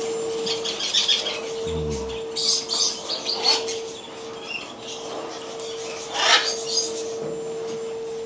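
Caged pet birds chattering: repeated short chirps and squawks, with a louder squawk about six seconds in. A steady humming tone runs underneath.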